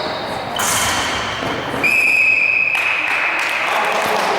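Referee's whistle in a sports hall: one steady, shrill blast of just under a second, about two seconds in, over the echoing noise of the court.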